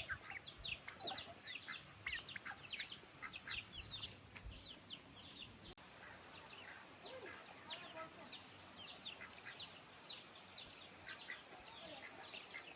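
Chickens peeping: many short high calls, each falling quickly in pitch, several a second, overlapping as from a number of birds.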